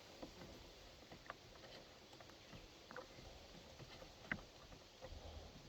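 Near silence with a few faint, scattered clicks and taps from hands working a part onto a Poulan 306A chainsaw, with a soft low thump near the end.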